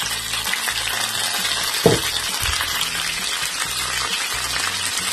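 Bitter gourd slices and onion rings sizzling steadily in hot oil in a frying pan, with a single short knock about two seconds in.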